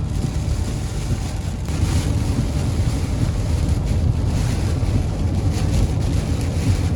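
Steady low rushing and rumbling of storm wind buffeting the microphone, with no clear tones.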